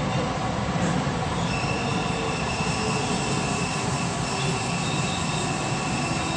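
JR West 223-series electric multiple unit running along the track, with steady running noise. About a second and a half in, a steady high-pitched squeal joins it and holds.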